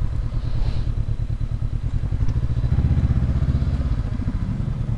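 Honda CB500X's parallel-twin engine running at low speed, pulling in slowly, a little louder for a second or so about halfway through.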